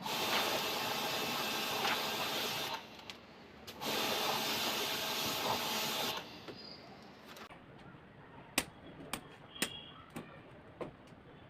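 A portable jet-pump pressure washer sprays water in two bursts of about two and a half seconds each, a motor whine under the hiss of the spray. This is the usual way an AC coil is washed during servicing. A few light clicks and knocks follow.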